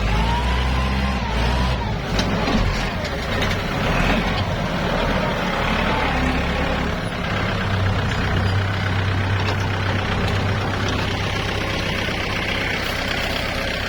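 Diesel tractor engines running under load, pulling a baler that is stuck in mud free.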